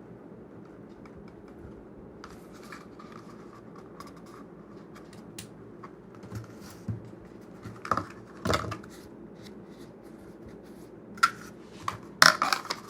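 Hard plastic Kydex holster being handled and fitted to a pistol: scattered small clicks and scrapes, growing sharper and more frequent in the last few seconds, over a low steady hum.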